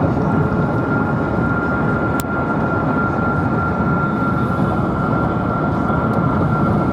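Steady rumble and road noise of a car driving, with a thin constant high tone throughout and a single sharp click about two seconds in.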